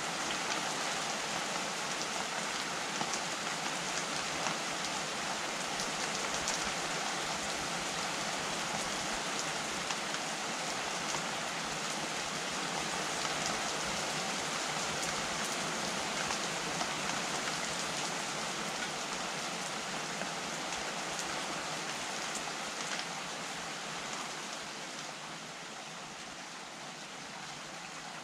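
Steady rain falling, with the fine ticks of single drops through the hiss; it eases a little near the end.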